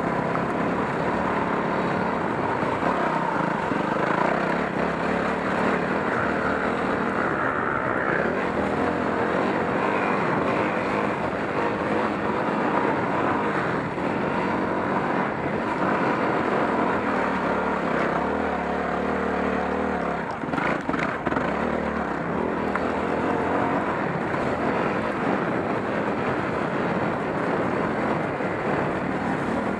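Yamaha WR250R's single-cylinder four-stroke engine running under way on a dirt trail, its pitch shifting up and down with the throttle, with a few knocks from the bike about two-thirds of the way through.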